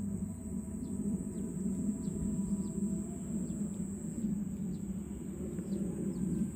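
Outdoor rural ambience: a steady, high-pitched insect drone, with many short, quick bird chirps scattered throughout, over a continuous low rumble.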